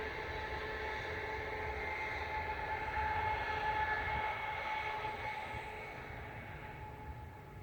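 A distant passing vehicle: a steady hum with a faint whine in it, growing a little louder about halfway through and then fading away near the end.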